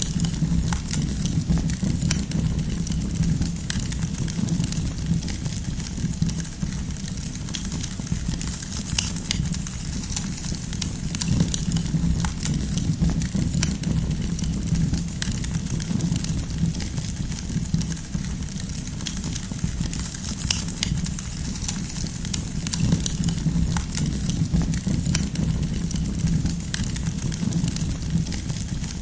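Campfire burning, its firewood crackling and popping with many irregular small snaps over a steady low rumble.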